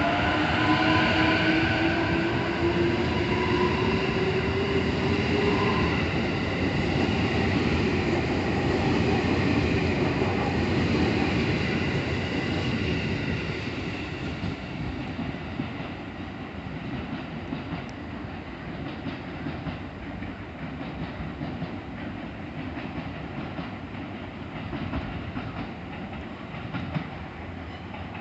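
Electric train pulling away: its traction motors whine, rising in pitch over the first few seconds, with the wheels clacking over the rail joints, and the sound fades as the train moves off.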